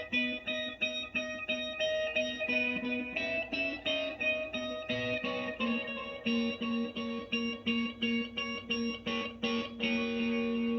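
Electric guitar playing a steady, repeating picked pattern of notes, about three to four a second, ending on a held note.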